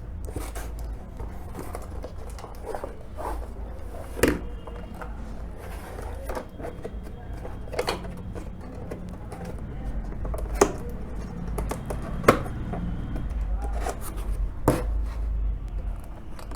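Headphone box and packaging being handled and opened by hand: a run of scattered sharp knocks, taps and clicks over low rumbling handling noise on the microphone.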